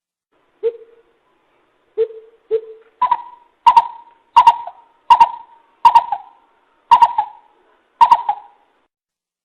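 Coucal hooting, as in a trapper's lure call. Three separate low hoots come first, then a run of about seven higher, sharper-starting hoots spaced a little under a second apart.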